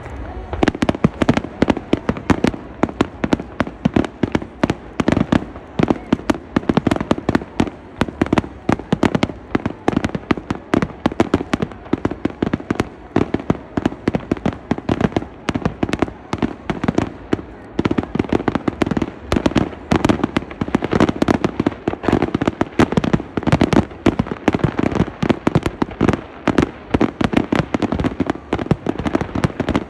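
Fireworks barrage: a dense, continuous volley of aerial shell bursts and crackling reports, many bangs a second without a break.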